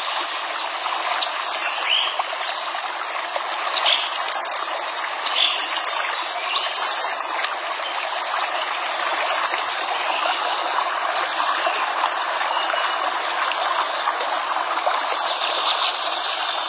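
Running stream with small birds chirping over it. The chirps are short and come in the first half and again near the end, while the water runs on steadily.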